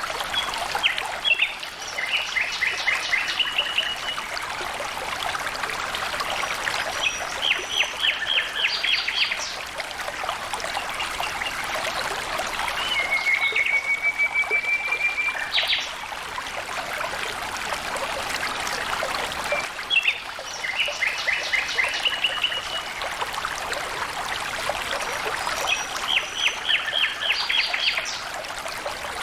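Water trickling and flowing steadily, with a bird calling every few seconds in quick runs of short, rapidly repeated notes.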